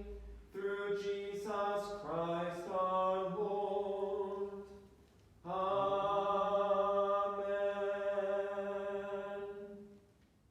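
A man's voice chanting the end of a prayer on a nearly level reciting tone, pausing about halfway, then holding one long final note that fades out near the end.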